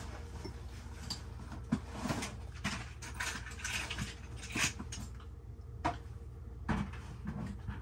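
Handling noises as a threaded steel pipe nipple and fittings are picked up and worked by hand: scattered light clicks, knocks and scrapes, the sharpest about a second and a half in and near five, six and seven seconds, over a steady low hum.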